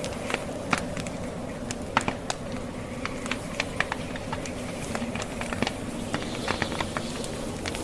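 Wood fire crackling, with irregular sharp pops and snaps of burning wood over a steady low hum.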